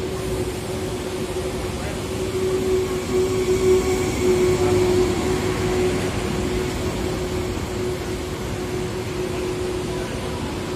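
Frecciarossa high-speed train rolling slowly along the platform as it pulls into the station: wheel rumble with a steady hum, swelling a little a few seconds in.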